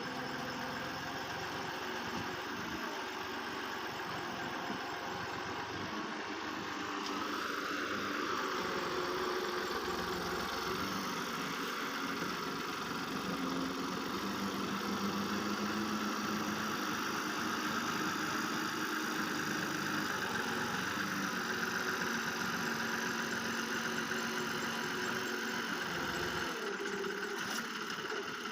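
Tractor diesel engine running steadily, its pitch shifting slightly now and then.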